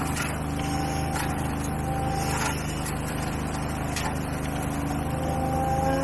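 Gasoline engine of lawn-care power equipment running steadily at a constant speed, with a few short sharp clicks about a second apart.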